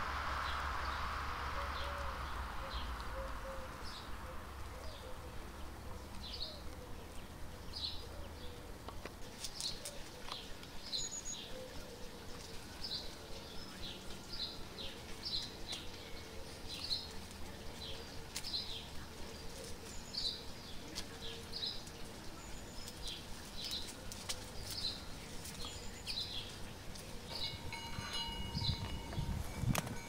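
A bird chirping over and over, short high chirps about once a second.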